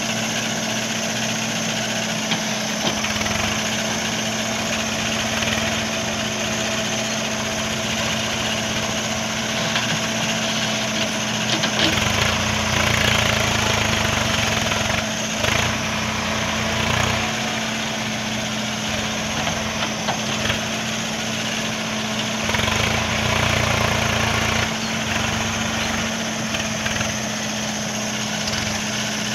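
Diesel engine of a JCB backhoe loader running steadily, its low rumble growing louder for a few seconds about twelve seconds in and again about twenty-two seconds in.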